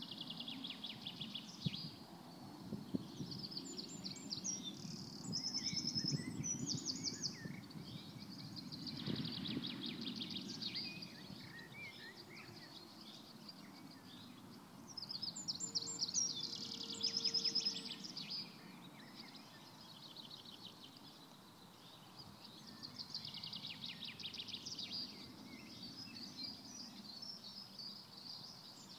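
Several songbirds singing in repeated fast trilled phrases, loudest in two spells, over a low steady background rumble.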